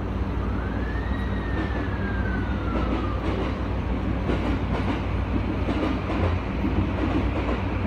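Tokyu 2020 series commuter train running, heard from inside the car: a steady rumble of wheels on rail with faint rail-joint clicks. A whine rises for about a second, then slowly falls over the next two seconds.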